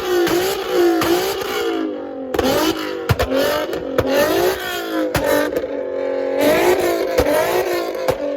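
A car engine with a loud performance exhaust being revved hard over and over, its pitch climbing and dropping in quick blips and held high once for a moment. Sharp exhaust pops crack out several times.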